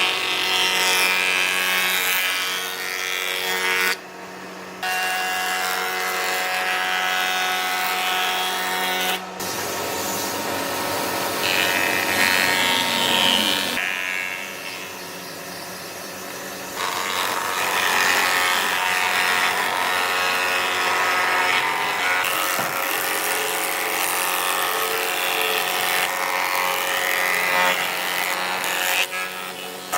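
Power tool with a steady motor whine working on wood, with a harsh scraping texture. It breaks off briefly about four and about nine seconds in.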